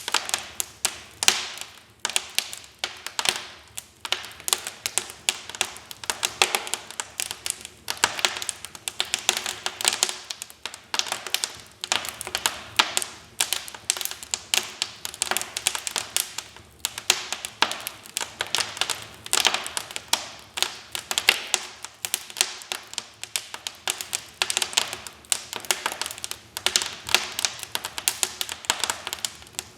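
Wood fire in a fireplace crackling, with dense, irregular snaps and pops following one another several times a second.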